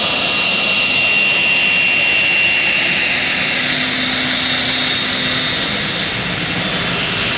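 White Knight Two's four turbofan jet engines running as the aircraft taxis past, a steady roar with a high whine that slowly drops in pitch.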